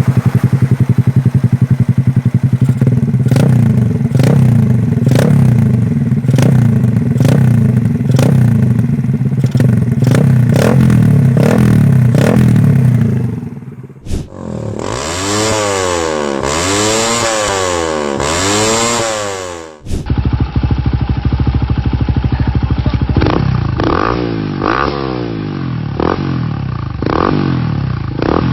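Benelli RFS 150i's single-cylinder engine running through aftermarket exhausts, in three cut-together clips. First it idles with quick throttle blips. About halfway through, a clip of three long revs that rise and fall. Then it idles with quick blips again.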